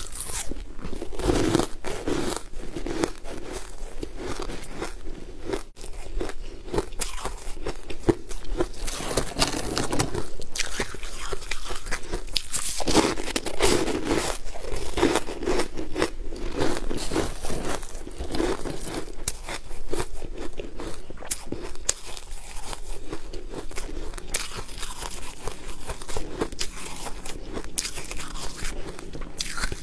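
Close-miked biting and chewing of small frozen dessert balls: repeated crisp crunches and cracks over a steady chewing sound.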